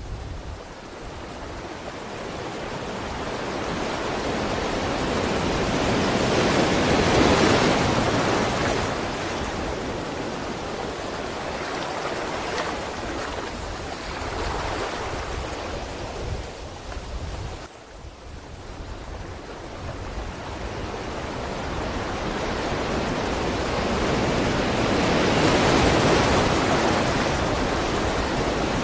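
Ocean waves washing on the shore, the surf swelling and fading: two long swells build to a peak, with a short lull between them about two-thirds of the way through.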